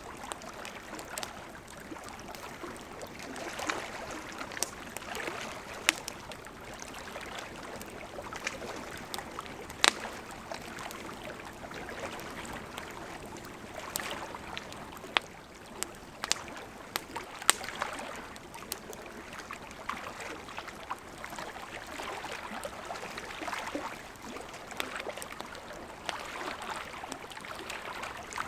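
Campfire wood crackling, with scattered sharp pops every second or two, over the steady rush of a gently flowing river.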